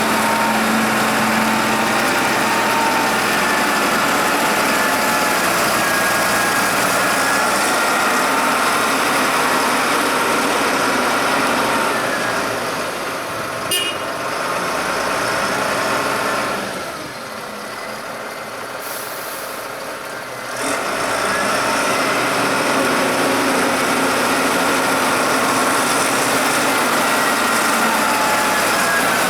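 Tractor engine running steadily. It goes quieter for a few seconds just past the middle, with one sharp click shortly before, then comes back up to its earlier level.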